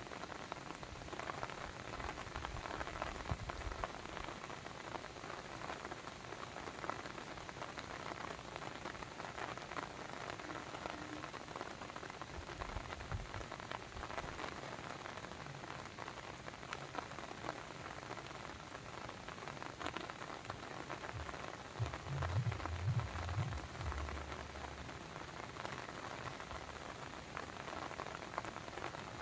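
Steady water noise: a dense patter of drops and splashes, like rain or a babbling brook, with a brief low rumble about two-thirds of the way through.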